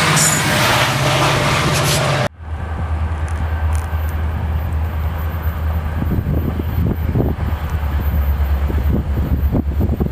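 Metra commuter train passing close by, its wheels on the rails and its diesel locomotive running, cut off abruptly about two seconds in. After that comes wind buffeting the microphone over a steady low rumble.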